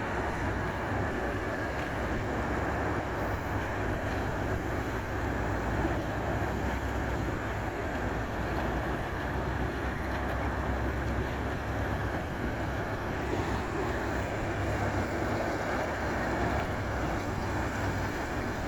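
A docked car ferry's engines running steadily, a low hum under a continuous churning rumble.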